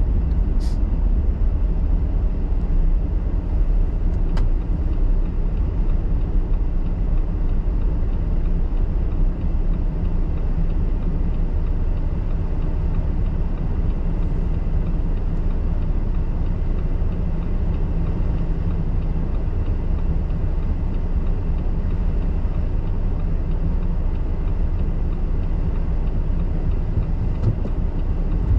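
A car driving, with a steady low rumble of engine and tyre noise and two faint clicks in the first few seconds.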